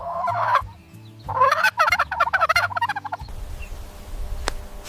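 Domestic turkey gobbling: one rapid, warbling gobble of about two seconds, starting about a second in.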